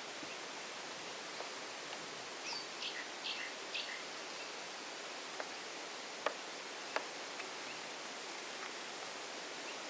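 A bird gives a short run of high chirps about two and a half to four seconds in, over a steady outdoor hiss. Two sharp clicks come a few seconds later.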